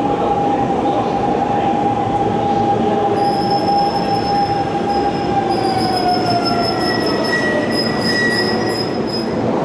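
Hanshin Railway electric train running through a station, with a steady whine that drops in pitch about six seconds in. A high-pitched wheel squeal sets in about three seconds in and lasts until near the end.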